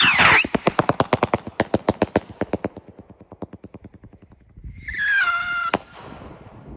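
A consumer strobe rocket launching with a sudden whoosh, then its strobe effect crackling as a rapid train of sharp pops, several a second, fading over about four seconds. About five seconds in, a high drawn-out cry falls in pitch, with a single sharp crack near its end.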